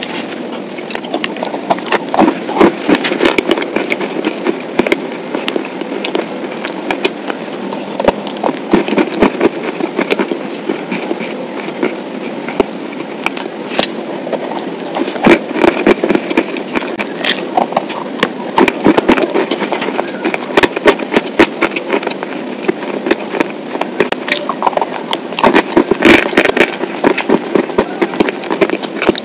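Close-miked crunching and chewing of a dry, crumbly block, with dense sharp crackling snaps throughout.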